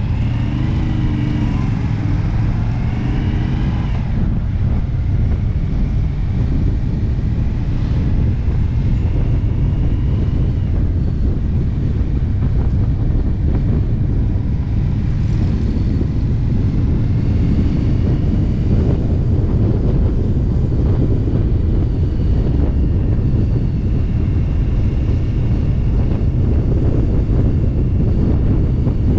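Indian V-twin motorcycle running steadily at road speed, heard from on the bike: a constant low engine note mixed with wind and road noise.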